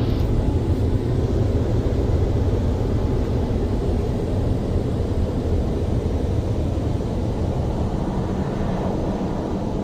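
Dryer blowers of a WashTec SoftCare SE car wash, the rotary roof dryer and side dryers, blasting air in a loud, steady rush with a deep rumble. The level eases slightly toward the end.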